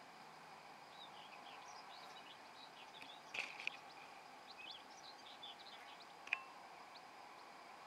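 Faint birdsong of small birds, many short high chirps and trills, over a steady outdoor hiss. Two calls stand out louder, about three and a half and six seconds in.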